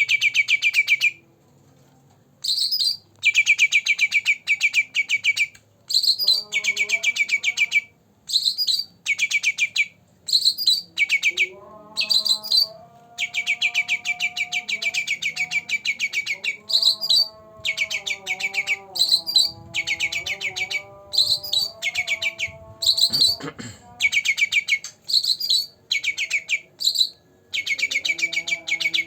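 Songbird singing loud, rapid buzzy trills in repeated bursts, some short and some several seconds long, with short gaps between them. From about six seconds in, lower clear whistled notes that step up and down in pitch run underneath, and there is a brief sharp sound at about 23 seconds.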